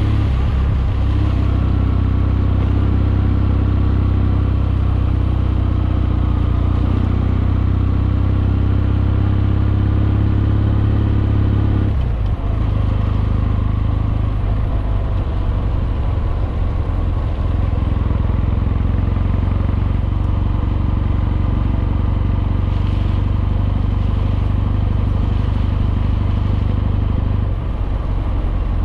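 Kawasaki W650's air-cooled parallel-twin engine with Wyvern Classic mufflers, running steadily on the move. About twelve seconds in, the low engine note changes abruptly and thins, as with a shift or a change of throttle.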